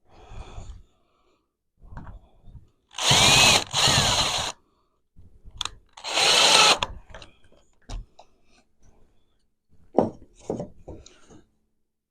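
Power drill running in three short bursts, two back to back and a third a couple of seconds later. Scattered knocks and clicks of tool handling come before and after the bursts.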